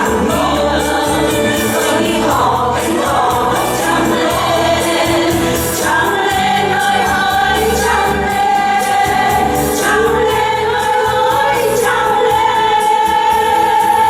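Several voices singing a song together over a musical accompaniment with a pulsing bass; from about halfway through, the voices hold long notes.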